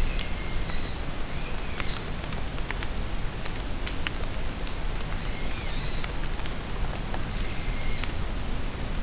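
Rain falling steadily in a forest, with scattered drops tapping close by, while a songbird sings four short phrases of about a second each, two near the start and two in the second half.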